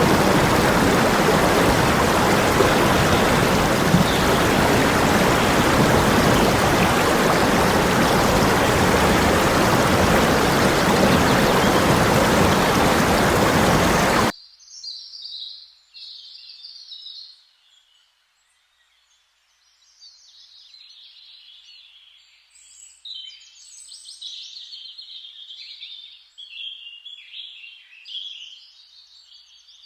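Loud, steady rush of flowing stream water that cuts off abruptly about halfway through, followed by birds chirping and singing.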